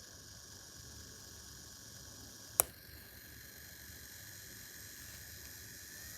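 Small 12 V geared BLDC motor (GM25A-BL2430) running quietly with a faint, steady high whine, and one sharp click about two and a half seconds in.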